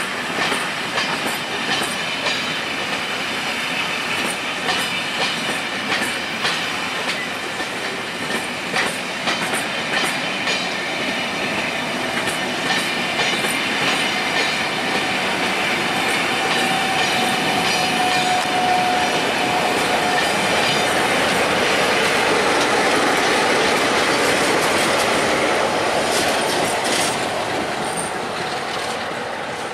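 A train rolling through a station, its wheels clicking over rail joints, with a thin wheel squeal for a few seconds past the middle. It then settles into a steadier, louder rolling sound that eases off near the end.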